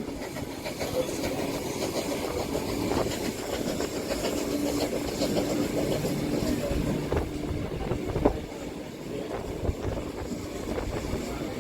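Steam-hauled excursion train rolling along the track, heard from on board a carriage: a steady rumble of wheels on rails. A faint steady whine runs through the middle, and there is a single sharp knock about eight seconds in.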